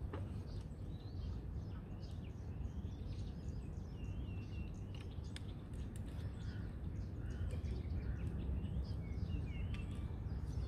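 Small birds chirping repeatedly, short quick calls scattered throughout, over a steady low background rumble.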